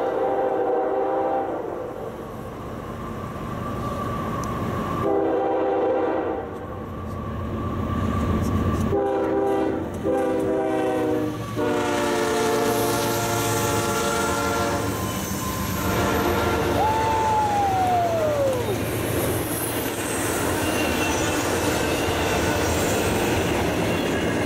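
A diesel freight locomotive's multi-tone air horn sounds a series of blasts as it approaches, the last one long, then it passes. A double-stack intermodal train then rumbles by, wheels clacking over the rails, with one brief falling squeal.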